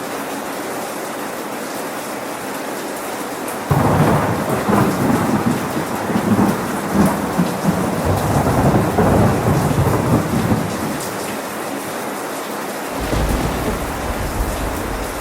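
Steady rain falling. About four seconds in, thunder breaks in suddenly and rumbles for several seconds before fading back into the rain. A second, deeper rumble of thunder starts near the end.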